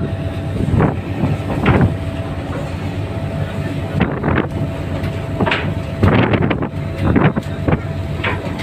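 A ferry's engine running with a steady low hum, while wind buffets the microphone in irregular gusts several times.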